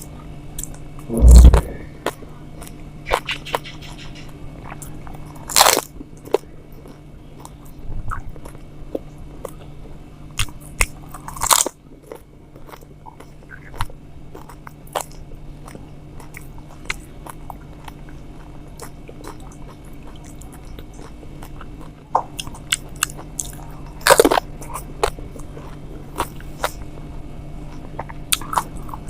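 A person eating pani puri: crisp hollow puris crunching as they are bitten, then wet chewing with small clicks. A handful of louder crunches come several seconds apart, the loudest about a second in.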